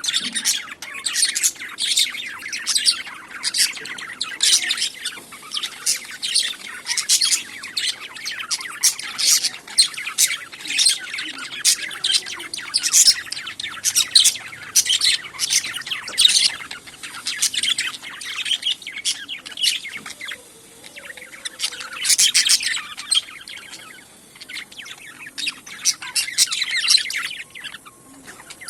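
Pet budgerigars chirping and chattering, a stream of short, high calls with a few squawks, pausing briefly about two-thirds of the way through.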